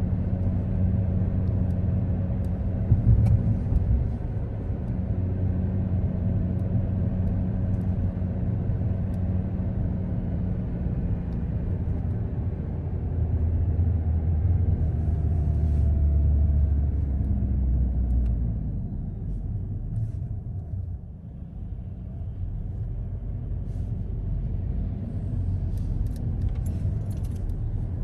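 Car driving: a steady low road and engine rumble, which eases off about two-thirds of the way through as the car slows, then picks up again more softly.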